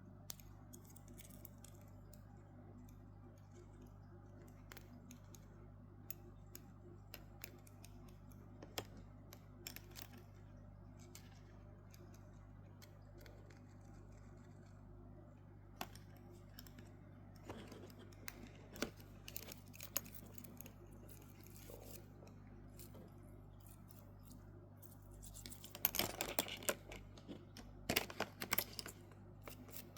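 Small watch parts and tools being handled on a work surface: scattered light clicks and taps, with a busier run of clicking and scraping near the end, over a steady low hum.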